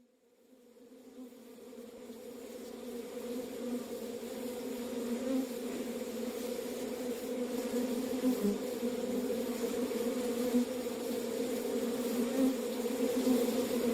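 Steady, insect-like buzzing drone at two low pitches, fading in slowly from silence.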